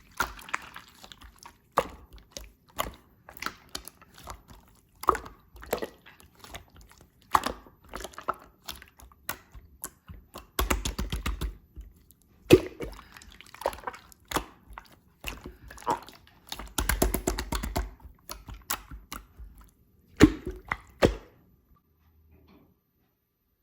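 Slime being squished and pressed by hand: a string of sticky pops and clicks, with two longer runs of dense crackling. It stops near the end.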